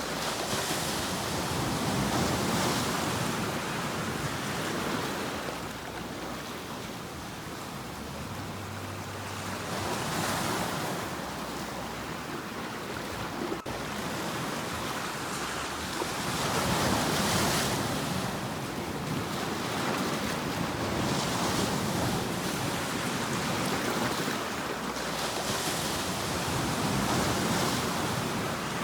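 Ocean waves breaking on a shore: a continuous rush of surf that swells and washes in every few seconds.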